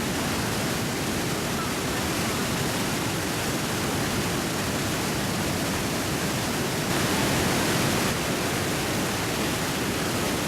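Roar of Iguazu Falls: water pouring over the cliff as a steady, even rush, swelling slightly for about a second a little past the middle.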